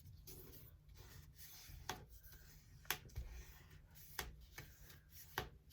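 A sheet of paper being folded and creased by hand: faint rubbing along the fold with a few sharp paper clicks.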